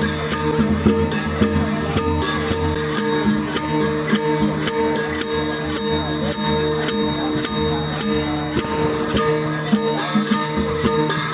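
Traditional dance accompaniment music: held gong-like tones under sharp metallic clashes on a steady beat, about two to three a second.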